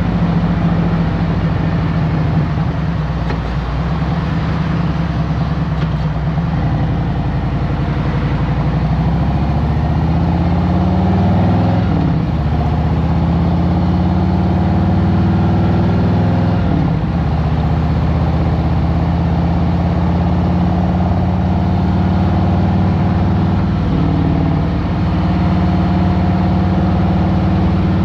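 2023 Harley-Davidson Road Glide Special's Milwaukee-Eight 114 V-twin running in traffic: steady at first, then rising in pitch as the bike accelerates, with short dips at gear changes about twelve, seventeen and twenty-four seconds in.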